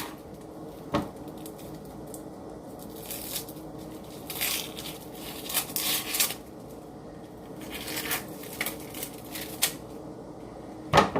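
Hands breaking apart pieces of cut onion, giving crisp rustling crackles in short, irregular bursts every second or two, with a couple of light knocks.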